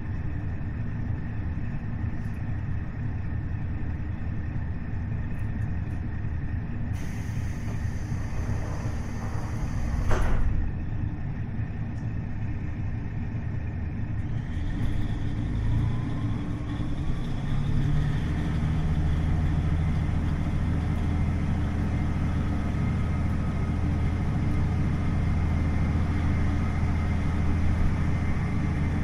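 Cabin running sound of a KiHa 40 diesel railcar with its DMF15HSA diesel engine: a steady low rumble. Air hisses for a few seconds, then there is a single sharp knock about ten seconds in. From about fifteen seconds the engine note strengthens and a faint whine rises as the engine works harder.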